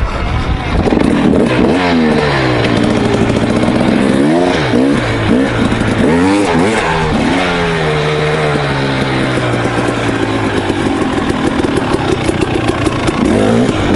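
KTM 300 XC's single-cylinder two-stroke engine revving up and down sharply several times as the throttle is worked, then a long, slowly falling pitch as it comes off the gas, and a fresh rev near the end.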